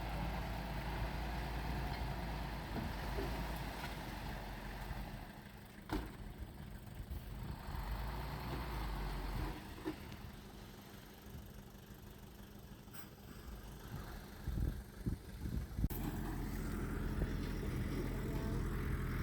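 Heavy-equipment diesel engine running at a steady speed. It fades lower in the middle, with a few sharp knocks, then comes back up near the end.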